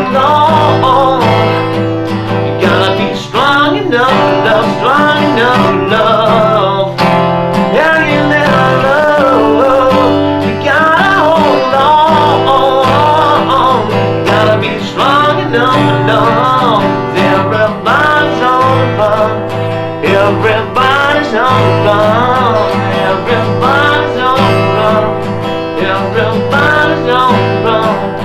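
Acoustic guitar strummed steadily, with a melody line over it that bends and wavers in pitch.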